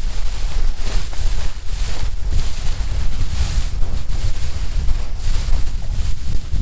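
Wind buffeting the microphone aboard a moving long-tail boat, with a heavy low rumble underneath and gusts rising and falling.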